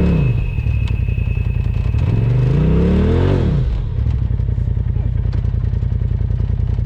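Side-by-side UTV engine running, dropping off a rev at the start and revving up and back down again about two to three seconds in. It then settles into a steady low run with a fast pulsing note.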